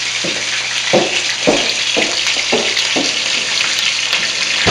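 Chicken pieces frying in a wok with a steady sizzle. A run of about six light knocks, roughly every half second, sounds over it in the first three seconds.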